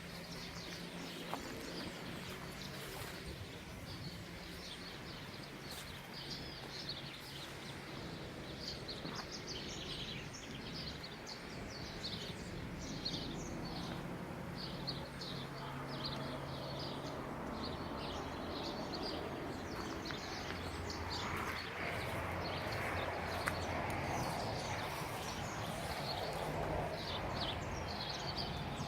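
Many small birds chirping in quick, repeated short calls, over a low steady hum and a background of outdoor noise that grows somewhat louder in the second half.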